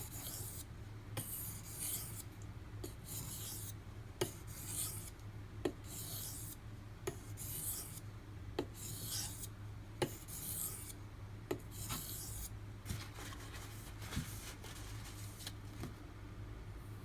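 D2 steel knife blade being stroked across a wet sharpening stone, giving a rasping hiss with each pass and a light click at each change of stroke, about one every second and a half. After about 13 seconds the strokes turn fainter and more continuous.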